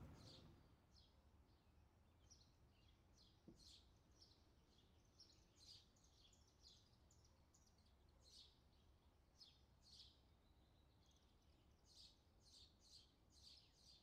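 Faint chirping of small birds: many short, high chirps at an irregular pace, coming more thickly near the end, over a steady low background rumble.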